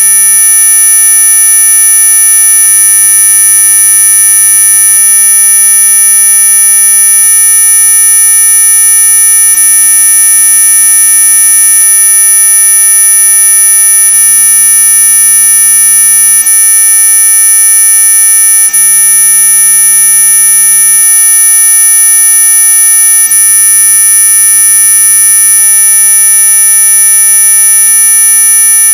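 Synthesized anti-mosquito 'ultrasonic' sound: a loud, steady, high-pitched electronic whine made of several pure tones at once, the strongest very high, holding unchanged throughout.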